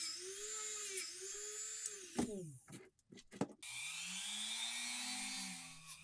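Small high-speed electric rotary tool running against metal with a steady hiss, its whine wavering under load; about two seconds in it winds down and stops, then starts again a second and a half later at a lower pitch.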